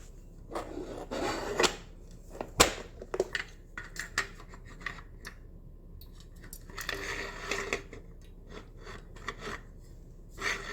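Scattered clicks, taps and scrapes of an LED headlight and its parts being handled and worked into a motorcycle headlight housing, with one sharp knock a little over two seconds in.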